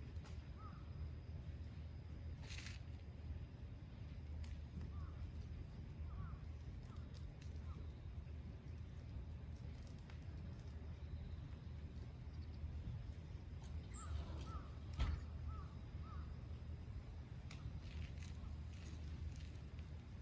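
Quiet rural evening ambience: short bird calls now and then, with a cluster of them near the end, over a low steady rumble. A few faint clicks and one short thump about three-quarters of the way through.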